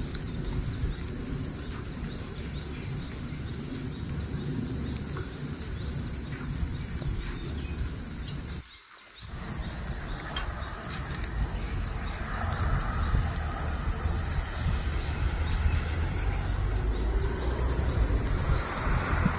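Outdoor nature ambience: insects trilling in a steady, high, continuous band over a low rumble of wind, with a few faint bird chirps. The sound cuts out briefly about nine seconds in.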